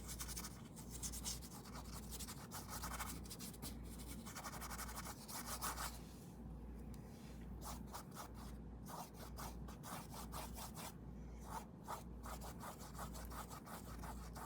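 Paintbrush scrubbing paint onto a canvas in quick, repeated strokes, busier in the first half and sparser later.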